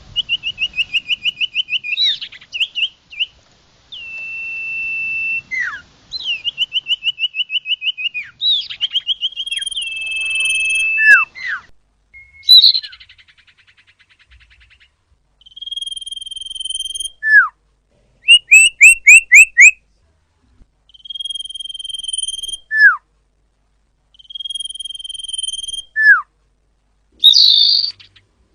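Common iora (cipoh) singing: long level whistles that end in a sharp falling slur, alternating with rapid trills of short repeated notes and bursts of fast chirps.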